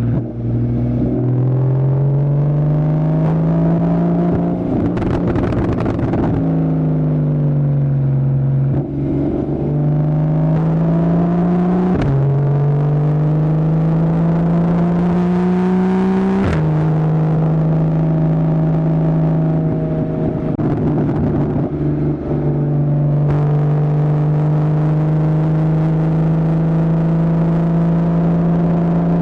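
2015 Porsche Boxster's 2.7-litre flat-six with a Fabspeed Maxflo aftermarket exhaust, driven hard through its PDK gearbox: the engine note climbs and falls with the throttle, drops sharply at quick upshifts about twelve and sixteen seconds in, then holds a steady drone at constant revs.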